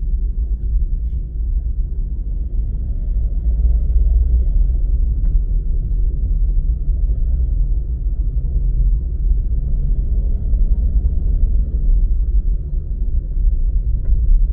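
Steady low rumble of a moving car heard from inside the cabin: road and engine noise, with no sudden events standing out.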